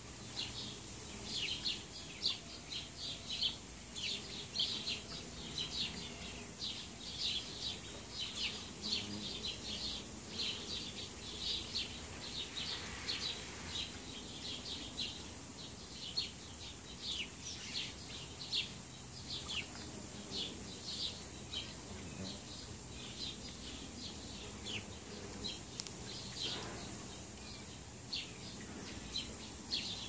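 A small bird chirping over and over: short, high, falling chirps, one or two a second, with brief pauses between runs.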